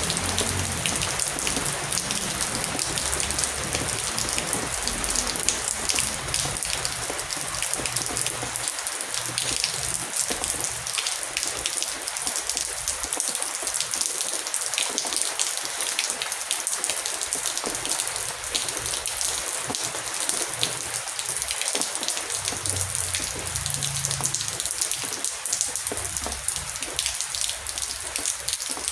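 Heavy rain falling steadily: a dense hiss full of individual drop ticks. A faint low rumble comes and goes near the start and again about three-quarters of the way through.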